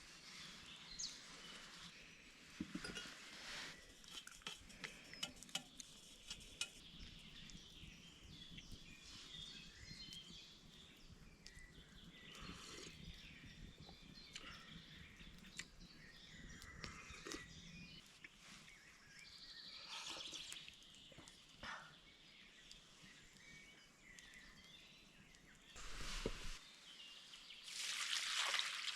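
Forest ambience: scattered bird chirps over a faint steady background, with small clicks and knocks throughout. Louder bursts of rushing noise come near the end.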